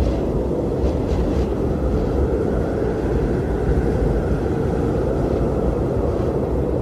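Strong blizzard wind blowing steadily, a dense, deep rush of noise with a faint higher hiss about a second in.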